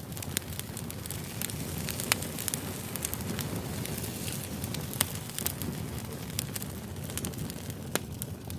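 Campfire crackling: a steady low rumble of burning wood with irregular sharp pops and snaps, the loudest about two seconds and five seconds in.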